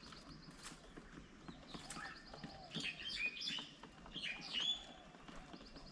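Small birds chirping and calling, with two louder bursts of varied whistled notes, about three seconds in and again a little past four seconds. A fast, high ticking trill comes and goes behind them.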